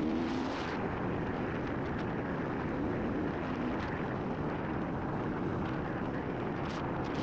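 Single-cylinder engine of a KTM 500 EXC-F dual-sport motorcycle running steadily while riding a dirt road, with road and wind noise.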